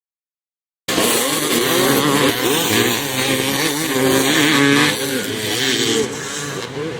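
Vintage motocross dirt bike engines revving hard and changing pitch as they race, more than one bike heard at once. The sound cuts in abruptly about a second in.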